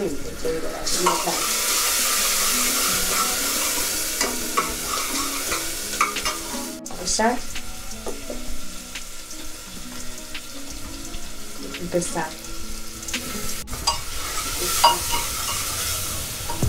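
Food frying and sizzling in hot oil in a cooking pan while a spoon stirs and scrapes it, with scattered clicks of metal on the pan. The sizzle is loudest for a few seconds starting about a second in and swells again near the end.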